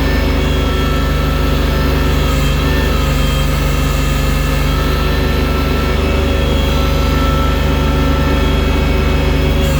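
Tractor engine running steadily at a constant speed under a loader bucket.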